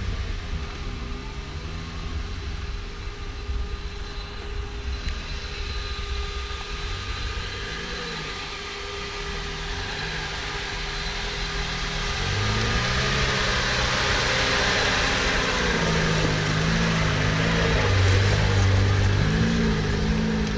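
Off-road 4x4 vehicle engine running at changing revs, with a broad hiss that swells louder about twelve seconds in.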